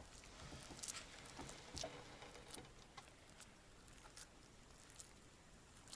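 Faint, scattered soft clicks and squishes of minced meat and rice being packed tightly by hand into a hollowed pepper.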